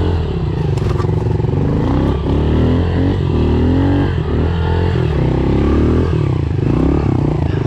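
Honda CRF four-stroke single-cylinder dirt bike engine being ridden on a trail, its revs rising and falling again and again as the throttle is opened and rolled off, with a heavy low rumble of wind buffeting underneath.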